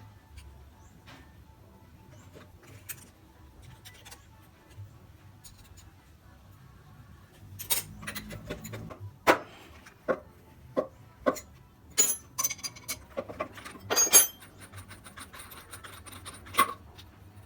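A quiet stretch, then from about halfway in a series of about a dozen sharp metallic knocks and clinks, irregularly spaced: tools working on a drill and its chuck to get the chuck off.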